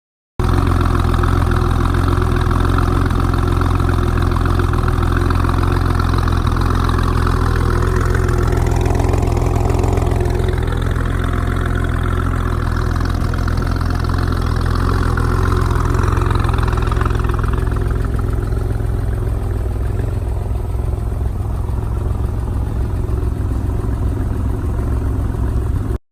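Porsche 993 Turbo's air-cooled twin-turbo 3.6-litre flat-six idling steadily, with a tone that rises and falls once about nine to eleven seconds in.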